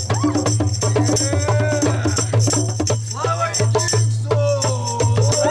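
Folk music: voices singing over hand percussion, with drum hits and rattling shakers or tambourine.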